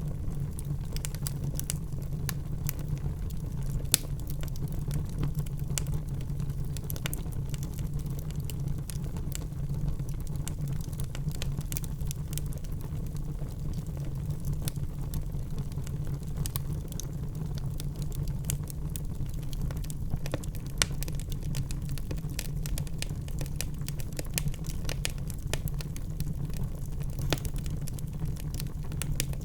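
Wood fire burning in a fireplace, crackling with many small irregular pops over a low, steady rumble; a few louder pops stand out now and then.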